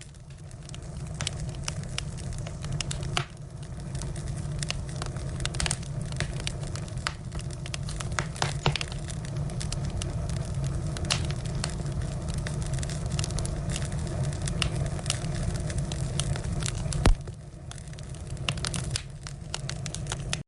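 Firewood burning, crackling with irregular sharp pops over a steady low rumble. One loud pop comes about three-quarters of the way through.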